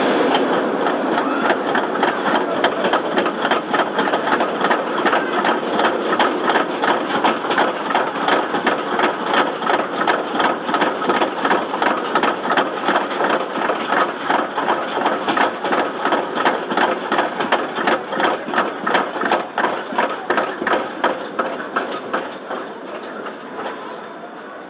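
Suspended roller coaster train climbing its chain lift hill: a loud, rapid, even clicking of the chain and anti-rollback ratchet, several clicks a second, which thins out and fades near the end.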